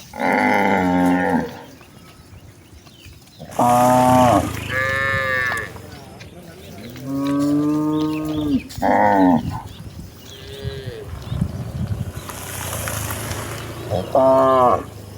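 Cattle mooing, several calls in turn from more than one cow at different pitches, about six long moos spread through the few seconds.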